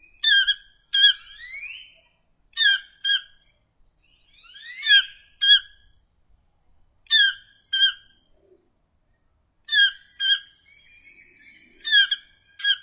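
A bird calling in short, sharp notes, mostly in pairs, with a few quick rising, sweeping notes between them.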